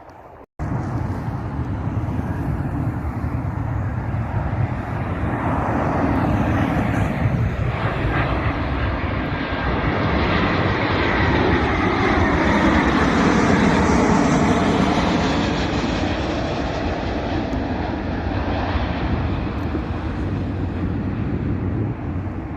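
Passenger aircraft engines passing by: a steady roar that starts abruptly about half a second in, builds to its loudest near the middle with a sweeping, phasing quality, then slowly fades.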